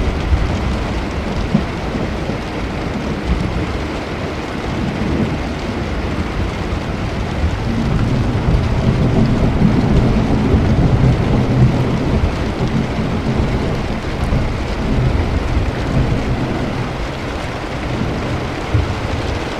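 Steady heavy rain during a thunderstorm, with a long roll of low thunder swelling and fading from about the middle.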